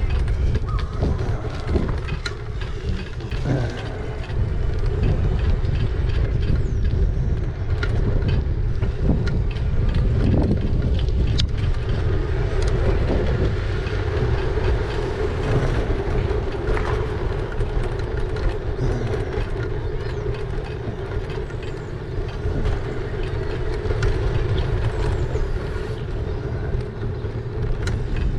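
Riding noise from an e-bike on the move: a heavy rumble of wind and road noise on the microphone, with a steady whine held at one pitch throughout.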